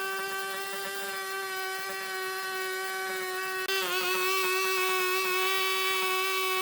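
A power tool's motor running at a steady speed with a whine, its pitch dipping briefly and recovering a little past halfway as it takes some load.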